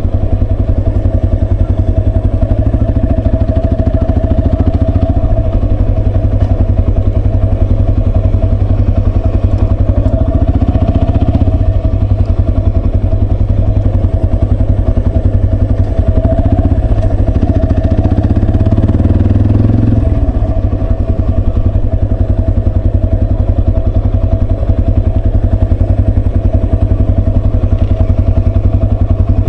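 Yamaha Serow 250's single-cylinder engine running steadily and loud, with a fast even pulse; its note changes for a while in the middle.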